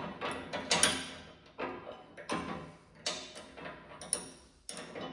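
Hand wrench on a 13 mm bolt: irregular metallic clicks and knocks as the bolt is worked, over background music.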